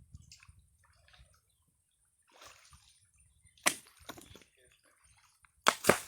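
A few sharp knocks of hard objects: one about two-thirds of the way through, then a louder pair near the end followed by a brief ringing.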